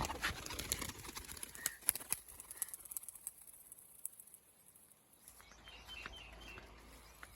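Pigeons' wings flapping, heard as a run of sharp clicks and rustles in the first few seconds, then a few short high bird chirps about two-thirds of the way through.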